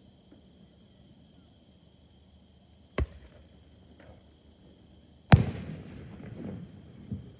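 Firework shells bursting: a sharp bang about three seconds in, then a much louder bang a couple of seconds later whose rumble and echo die away over about two seconds. A steady high insect trill runs underneath.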